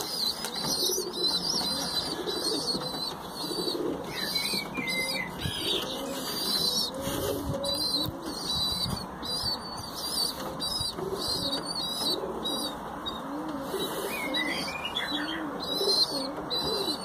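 Domestic pigeons cooing over and over, with high-pitched chirping and occasional wing flaps.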